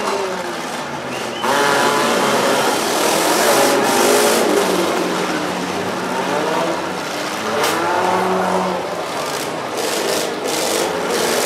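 Several 4- and 6-cylinder demolition derby cars' engines revving up and down over a dense, loud din, which gets suddenly louder about a second and a half in. A few sharp knocks come in the second half.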